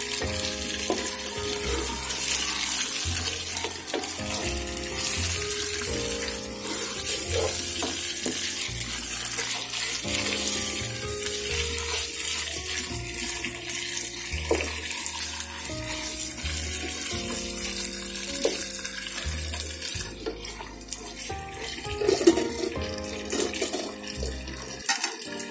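Chicken pieces sizzling in oil and spice paste in a pot while they are stirred with a wooden spatula, a steady frying hiss that thins out about twenty seconds in. Background music with a bass line plays throughout.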